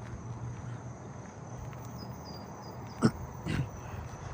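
Crickets trilling steadily in the background, with two short, loud animal calls, like barks, about three seconds in, half a second apart.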